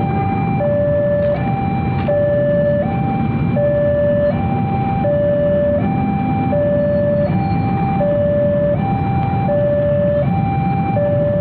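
Electronic warning alarm alternating between two notes, high and low, each held about three-quarters of a second and repeating steadily, typical of a railway level-crossing warning sounding as a train approaches, over a low steady rumble.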